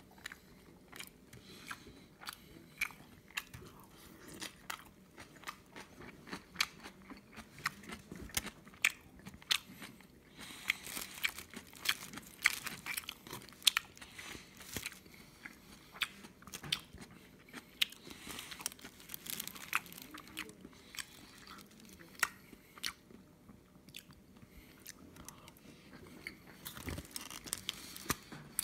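Close-up chewing and biting of a kimchi-and-egg rice burger: a long, irregular run of sharp wet mouth clicks and crunches.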